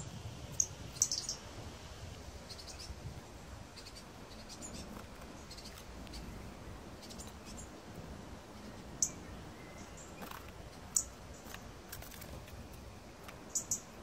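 Small bird giving short, high chirps now and then, with a few louder ones about a second in, twice in the middle, and a quick pair near the end.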